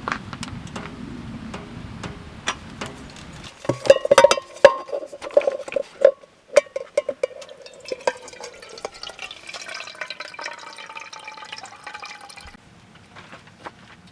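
Liquid being poured into a container among clinks and knocks of cookware, its pitch rising as the vessel fills until the pour stops near the end.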